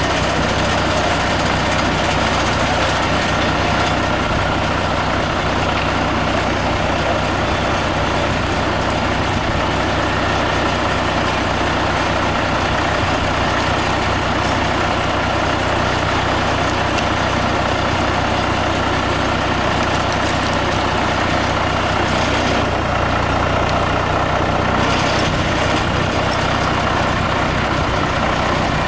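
Heavy engine running steadily at a constant speed, with a low, even hum and no changes in pitch, typical of the machine working the boat lift.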